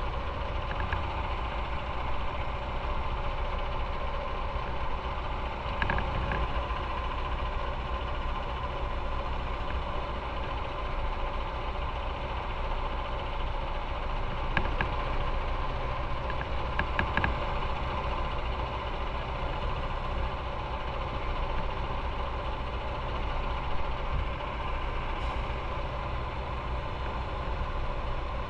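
Motorcycle engine running at a steady, unchanging speed, with a low rumble and a few faint clicks.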